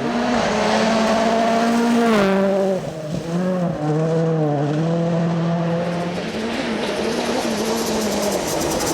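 Rally car engine at full throttle on a stage: the engine note is held high, drops with a gear change about two seconds in, shifts again around three and four seconds, then fades and climbs again near the end.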